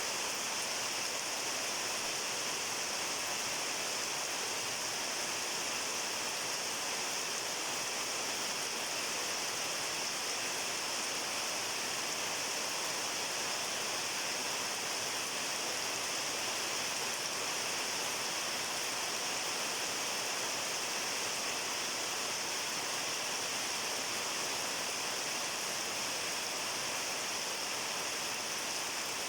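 Steady rain falling: a dense, even hiss with no change in level.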